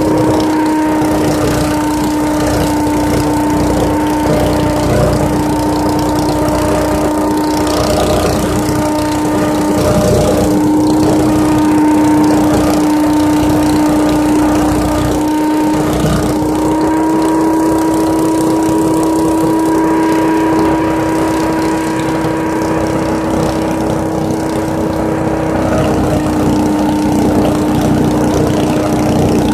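Leaf vacuum running steadily as it sucks up leaves, a constant droning tone over a rushing noise.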